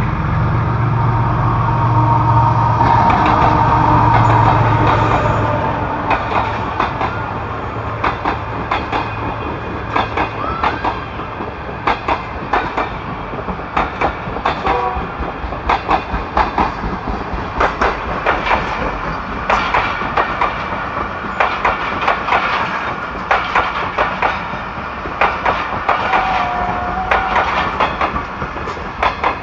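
GEU-40 diesel-electric locomotive passing close with a loud low engine drone and a steady high whine, followed by its train of passenger coaches running through at speed. The coach wheels click over the rail joints in a steady, repeating clatter.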